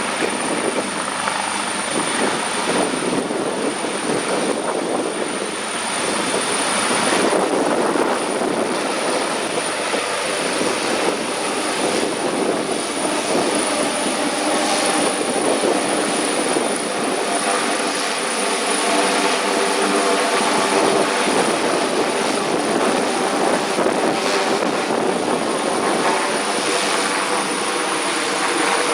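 Emergency helicopter's engine and rotor running steadily.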